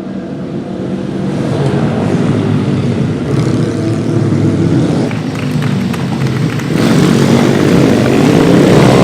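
Mini motard pitbike engines revving hard at racing speed, getting louder over several seconds, with a rising rev near the end.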